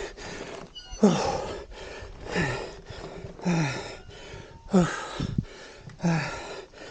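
A man panting hard, out of breath from physical effort: about six heavy, gasping breaths, roughly one a second, each with a short downward-sliding voiced groan.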